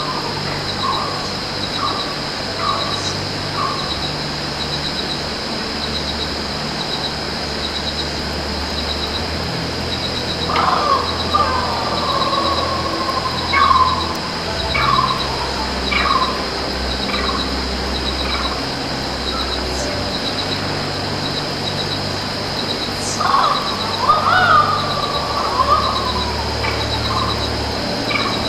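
Varepa birds calling in three bouts of loud, repeated notes that fall in pitch: at the start, around the middle, and near the end. A steady high buzz runs underneath.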